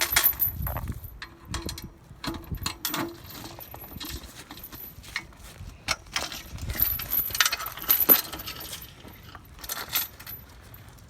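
Metal safety chain clinking and rattling in irregular clicks as it is put on a hand truck to hold a log.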